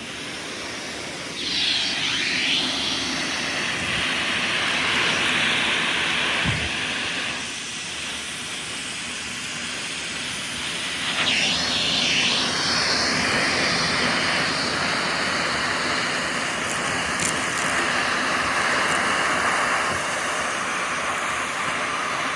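Hoover Constellation Model 86 canister vacuum running, a steady rushing motor noise. It grows louder about a second and a half in, eases off for a few seconds in the middle, and grows louder again about eleven seconds in as the vacuum works.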